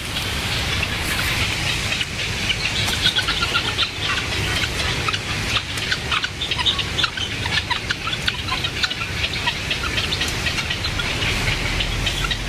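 Many birds chirping in short, rapid calls, busiest in the middle stretch, over a steady hiss.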